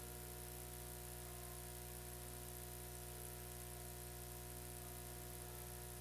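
Steady electrical hum and buzz with hiss: an unchanging drone of several pitches and no speech, typical of a noisy audio line on a recording whose sound is partly missing.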